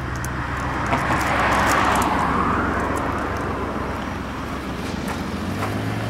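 Motor vehicle noise: a steady low engine hum, with a rushing whoosh that swells about a second in and fades out by about three seconds.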